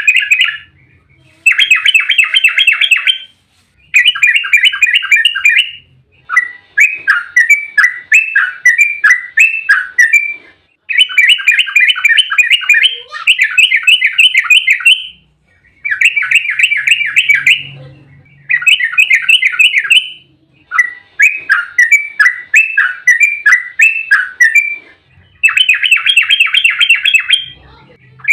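Yellow-vented bulbul (trucukan) singing in loud bursts of rapid, bubbly chattering notes. Each burst runs one to three seconds, and the bursts repeat after short pauses.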